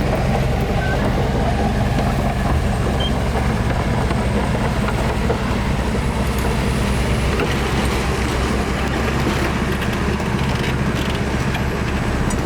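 Heavy diesel engine of earthmoving machinery running steadily, with a continuous low drone and mechanical noise.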